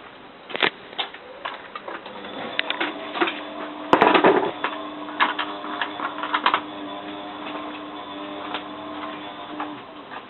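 Bosch WFF2000 washing machine after its spin: motor whine as the drum turns slowly, with a run of clicks and knocks and one louder clunk about four seconds in.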